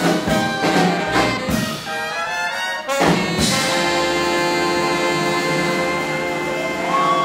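Big band with trumpets, trombones and saxophones playing hot swing-era jazz; about three seconds in a sharp accent gives way to a long held brass chord.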